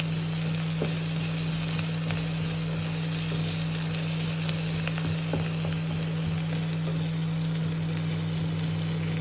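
Onions with freshly added spring onion leaves and coriander stems frying in oil in a pan: a steady sizzle over a steady low hum.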